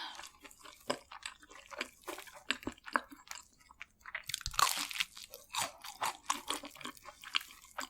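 Crunching and chewing of crispy fried food: irregular crackles of a crunchy coating being bitten and chewed, with a louder burst of crunching about halfway through.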